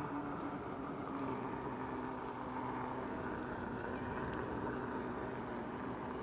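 Electric unicycle in motion: its hub motor hums, the pitch sinking slowly, over a steady rushing noise of tyre and air.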